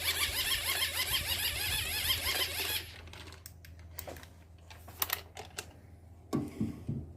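Rapid, evenly repeated metallic clicking for about three seconds, then a few separate clicks and taps: hand tools working at a brake caliper and pads.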